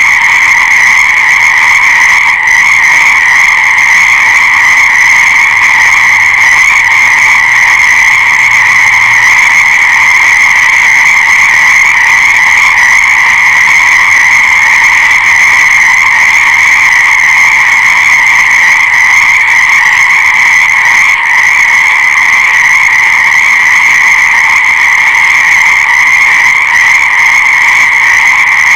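A dense chorus of many frogs calling at once, their calls merging into one steady, unbroken sound.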